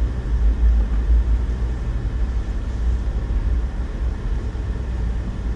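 Steady low rumble of a 2008 Honda Ridgeline pickup driving on a snow-covered road, engine and tyre noise together.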